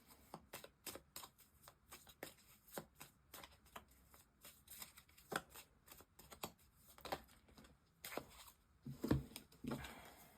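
A tarot deck being shuffled and handled by hand: a run of soft, irregular card riffles and clicks, a little louder about nine seconds in.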